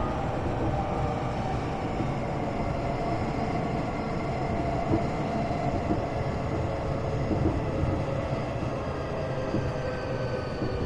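Tokyo Metro 8000 series train running, heard from inside the passenger car: a steady rumble of wheels on rail with a whine held at a few fixed pitches above it.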